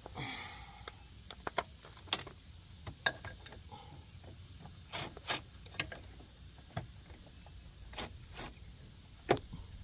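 Scattered clicks and clinks of hand tools and sockets being picked up, fitted and set down during work on an ATV's front axle, about a dozen separate knocks, the loudest about two seconds in, with a short rustle at the start.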